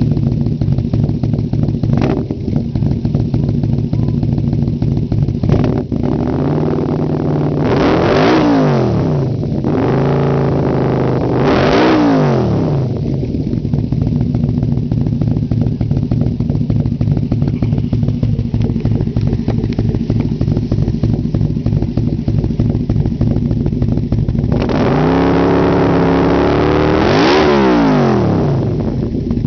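Yamaha V-Max's V4 engine idling through an aftermarket Marks 4-into-1 exhaust, its throttle blipped three times. There are two short revs about eight and eleven seconds in and a longer one near the end, each rising and falling back to idle.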